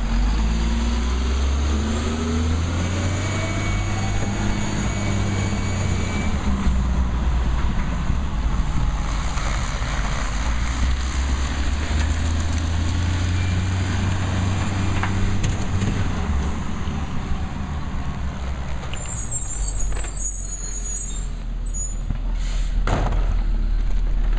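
Garbage truck's diesel engine running, speeding up twice for a few seconds with a high whine over it. A short air-brake hiss near the end.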